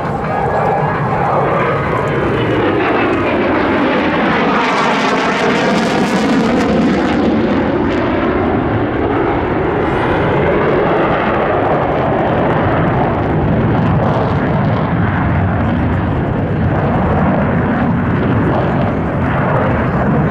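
Jet noise from an RF-4 Phantom's twin J79 turbojets as it makes a pass. The sound swells and brightens to a peak about five seconds in, then turns duller as the jet moves away. It stays loud all the way through.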